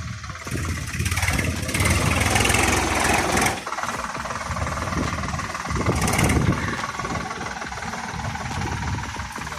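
Solis 5015 tractor's diesel engine starting up and running loudly for a few seconds. It drops to a steadier idle about three and a half seconds in, and briefly picks up again around six seconds.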